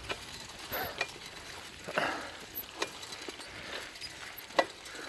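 Bicycle rattling over a bumpy trail: scattered sharp clicks, clinks and knocks from the frame and parts, with two louder knocks, one near the middle and one near the end.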